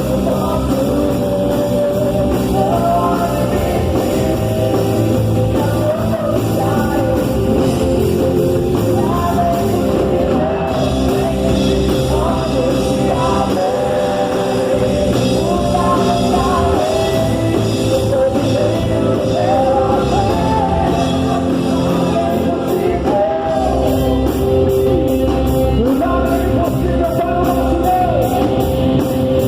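Live worship song: a singer carrying a melody over an amplified band, loud and steady, with a regular cymbal-like beat coming in during the last few seconds.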